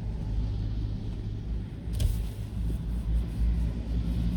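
Steady low rumble of a car's engine and tyres heard from inside the moving car, with a single sharp knock about two seconds in.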